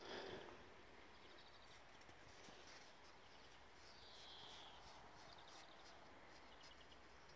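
Near silence, with a few faint bird chirps every second or so.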